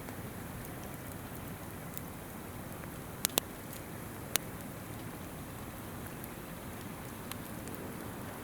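Wood campfire crackling over the steady rush of a flowing river, with faint small crackles throughout. Two sharp pops come close together a little over three seconds in, and a third about a second later.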